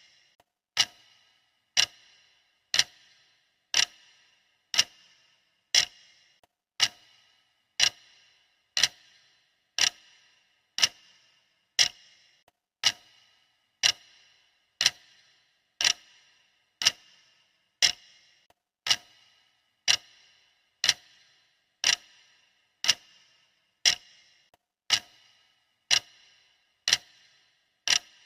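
Clock ticking steadily, one tick a second. Each tick is a sharp click with a short ring.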